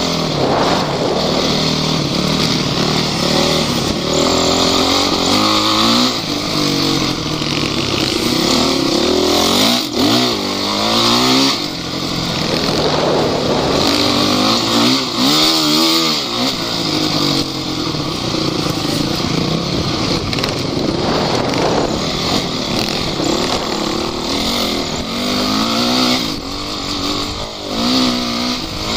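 Off-road vehicle engine running under load, its pitch rising and falling again and again as the throttle is worked over rough ground, with steady driving noise underneath.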